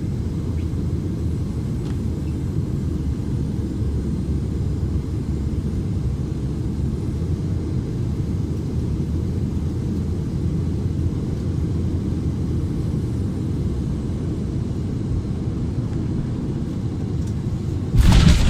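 Steady low rumble of an airplane, with a sudden, much louder, harsher noise breaking in near the end.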